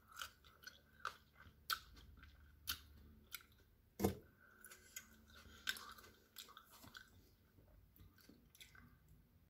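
Close-up chewing and crunching of raw bell pepper and cherry tomato, with scattered sharp clicks. About four seconds in, a metal fork knocks loudly against a glass baking dish.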